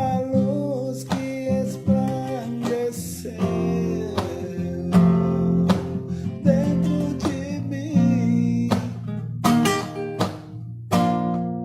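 Acoustic guitar strumming chords, a stroke roughly every second with the chords ringing between, in the closing instrumental part of a gospel song.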